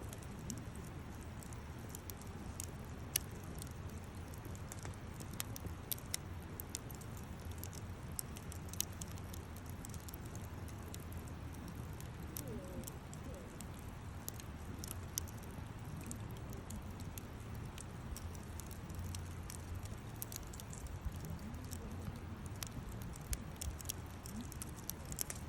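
Wood bonfire burning: irregular sharp crackles and pops over a steady low rush of the flames.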